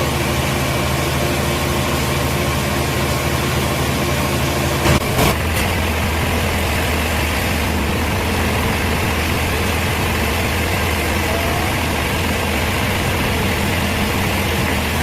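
A large engine running steadily at a low, even pitch, with two sharp knocks about five seconds in, after which its note shifts lower.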